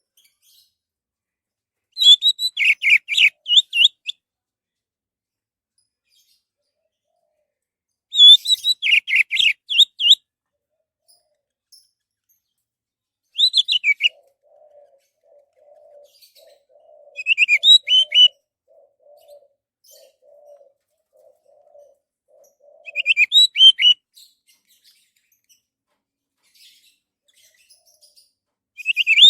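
Orange-headed thrush singing: six short phrases of quick, warbled notes, each lasting one to two seconds, with pauses of several seconds between them.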